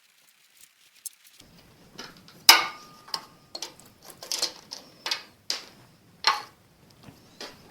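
A series of sharp metal-on-metal knocks and clinks from hand tools working on a cast-iron engine block, irregularly spaced about half a second to a second apart. The loudest comes a couple of seconds in and rings briefly.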